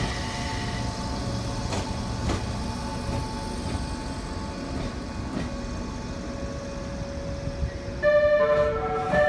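A train pulling out on the next track at a station platform: a steady rumble with a couple of clicks. About eight seconds in, a station chime melody of clear, stepping tones starts over it.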